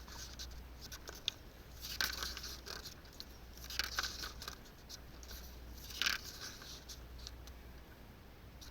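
Paper pages of a service manual being rustled and turned, in three main crinkly bursts about two seconds apart with light handling ticks between, over a steady low hum.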